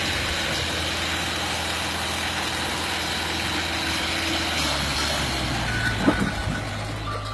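Tractor engine running steadily; a little under two-thirds of the way through, its pitch steps up and stays higher. There is a brief sharp knock about six seconds in.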